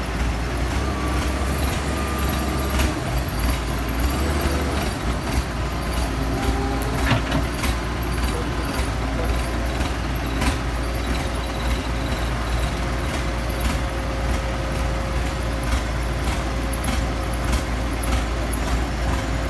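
Excavator diesel engine running steadily, with scattered short metallic clicks and knocks over the low rumble.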